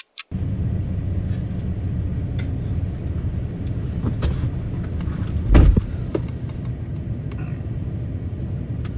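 Steady low rumble of a vehicle on the road, with scattered light clicks and one louder low thump about five and a half seconds in.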